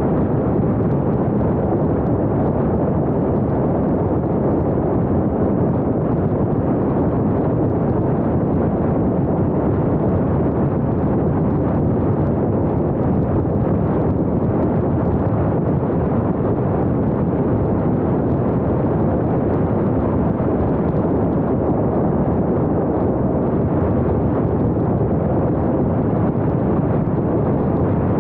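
Steady rumbling noise of a car driving along, with wind buffeting the action camera's small microphone.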